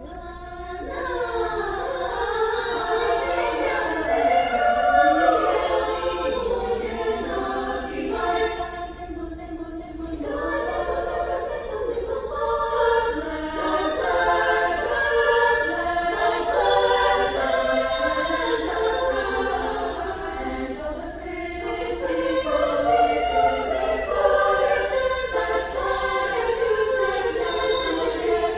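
A female high school choir singing a polyphonic piece, several voice parts moving at the same time. The singing starts about a second in, with a short break for breath near 9 seconds.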